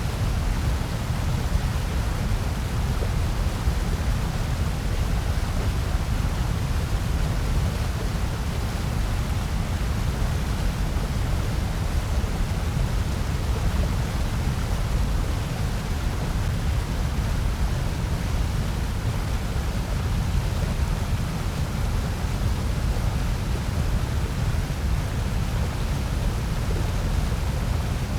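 Steady generated noise of the kind sold as white noise: an unchanging hiss with most of its weight in the bass, never varying.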